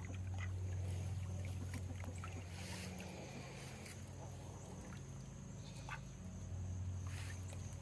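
Farmyard ambience dominated by a steady low hum, with scattered faint bird chirps and calls and two brief hissy swells about three and seven seconds in.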